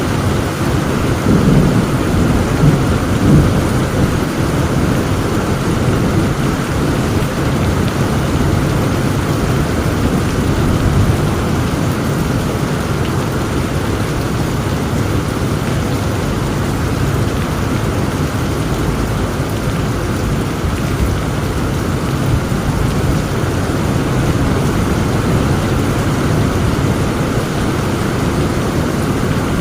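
Heavy rain falling steadily with thunder rumbling in the background, swelling a little louder a couple of seconds in.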